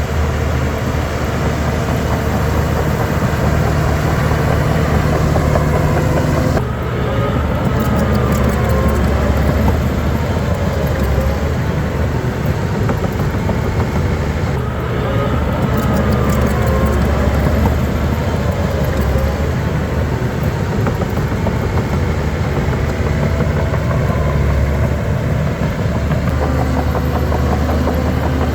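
Shantui DH17 bulldozer's heavy diesel engine running continuously under work. Its note shifts about seven seconds in and again around the middle, and faint whines rise and fall a few times over the engine.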